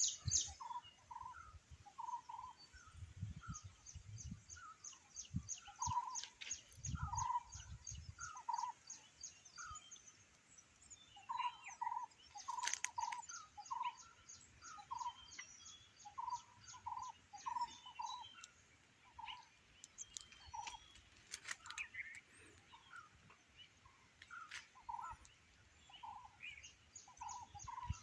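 Several birds calling together: short low notes repeated over and over, mixed with rapid high-pitched trills and chirps.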